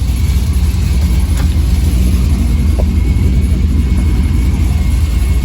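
A car engine running with a steady low rumble, with no revving.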